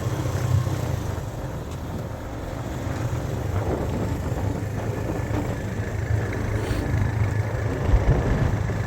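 A road vehicle running, with a steady low engine and road rumble.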